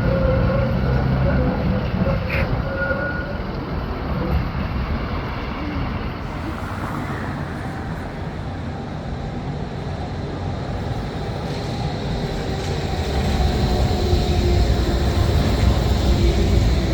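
A city tram running along the street amid general traffic noise, with faint steady tones from the tram, growing louder over the last few seconds as it comes closer.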